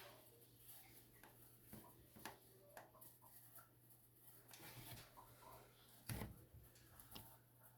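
Near silence: faint room tone with a low steady hum, a few faint clicks, and one soft knock about six seconds in.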